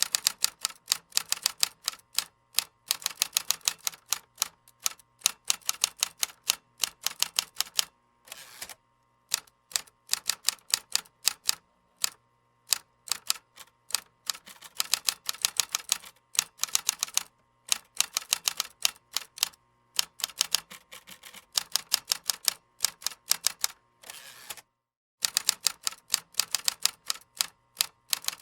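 Keyboard typing: fast runs of key clicks in bursts, broken by short pauses, the longest about 24 seconds in.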